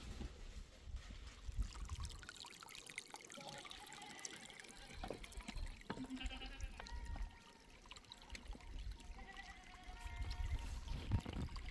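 Sheep bleating a few times over the steady trickle of a stream.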